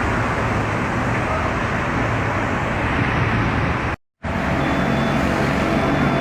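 Steady mechanical running noise with a low hum underneath, broken by a complete dropout of about a quarter second some four seconds in; after it, faint steady whining tones sit over the noise.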